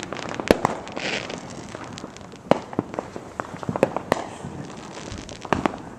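Aerial fireworks bursting overhead: a string of sharp bangs and crackles at irregular intervals, with the loudest reports about half a second in and again near the middle.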